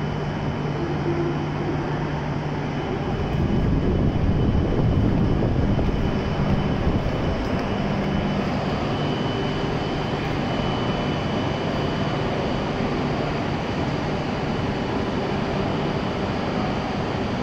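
E7-series Shinkansen standing at the platform, its onboard equipment running with a steady low hum and a faint high whine, all echoing in the station shed. The noise swells for a few seconds about three seconds in, then settles back.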